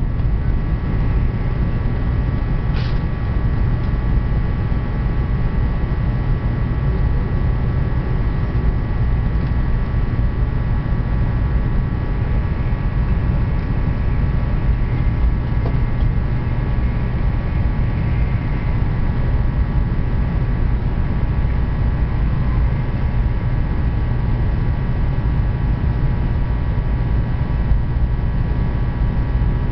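Train running at steady speed: a loud, even rumble with a faint high steady whine over it, and a single click about three seconds in.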